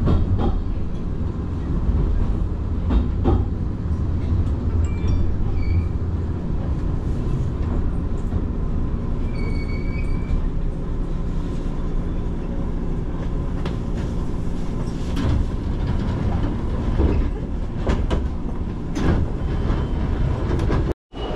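Hanshin Railway commuter train heard from inside the carriage: a steady low rumble of the wheels and running gear, with occasional clicks over the rail joints and a short high squeal about ten seconds in. The rumble lightens in the last few seconds as the train draws into a station.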